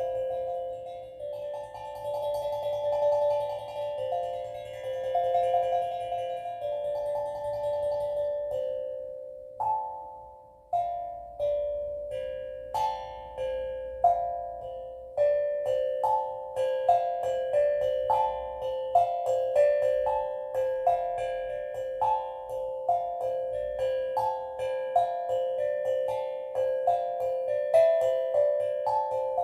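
Steel drum playing slow, ringing notes that overlap and sustain at first. From about ten seconds in, separate strikes come roughly once a second, each ringing out as it fades.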